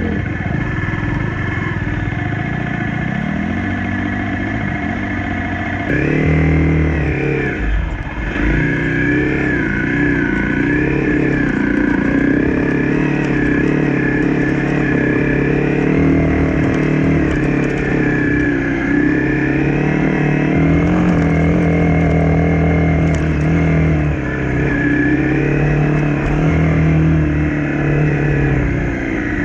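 Honda CRF250 dirt bike's single-cylinder four-stroke engine running on the move, its revs climbing sharply about six seconds in and then rising and falling with the throttle.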